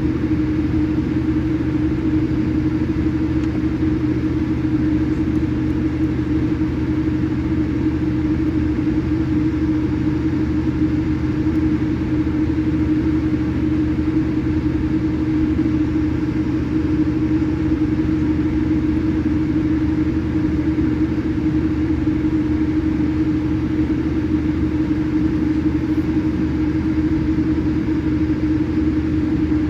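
Steady cabin drone of a Boeing 787-8 airliner: engine and airflow noise heard from inside the cabin, an even rumble with a constant low hum that does not change.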